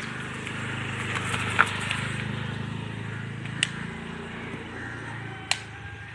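A steady low motor hum, with three short sharp clicks about two seconds apart.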